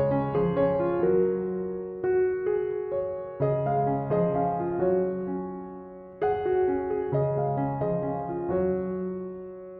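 Background piano music: slow, gentle phrases of sustained notes that ring and fade.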